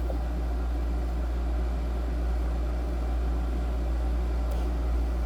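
Holmes Blizzard 9-inch desk fan running with a steady low hum; its blade is out of balance, which the owner gives as the cause of its rattle.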